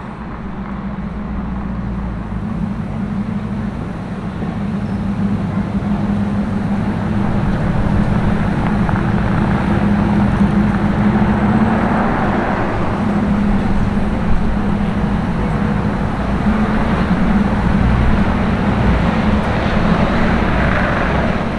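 Street traffic with a vehicle engine running steadily close by, a low, even hum over road noise that slowly grows louder.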